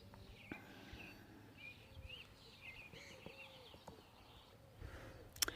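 Faint birdsong: a series of short chirps and trills, with a sharp click near the end.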